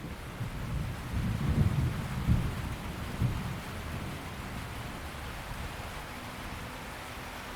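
Steady rain falling, with a deep roll of thunder that swells about a second in, is loudest around two seconds in, and dies away by about four seconds, leaving the even hiss of rain.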